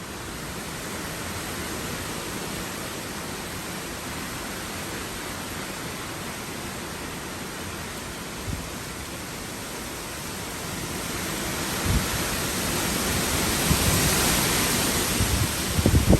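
Hurricane wind and rain: a steady rushing hiss that swells louder about eleven seconds in, with a few low thumps near the end.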